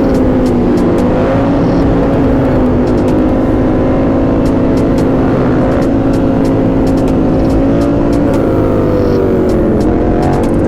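Motorcycle engine running at a steady speed while riding. Its pitch dips briefly near the end, then picks back up.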